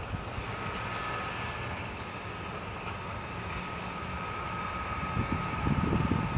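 Electric locomotive hauling a Railjet passenger train approaches and grows steadily louder, with a thin, steady high whine setting in about a second in. Near the end, low gusts of wind buffet the microphone.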